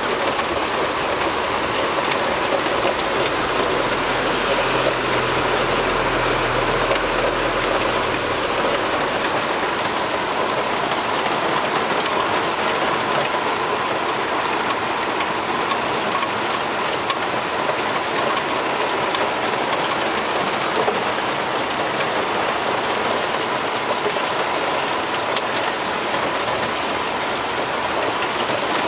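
Heavy rain pouring down steadily, a dense even hiss of drops on the ground and surfaces. A low rumble comes in from about three to nine seconds in.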